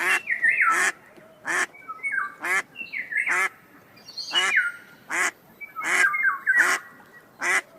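Ducks quacking over and over, about one loud quack a second, with other calls overlapping between them.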